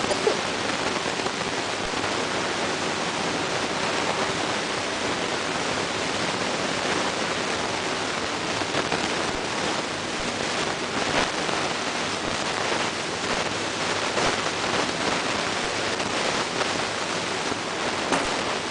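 Many small caged birds chirping at once, their calls blending into a dense, steady hiss of twittering.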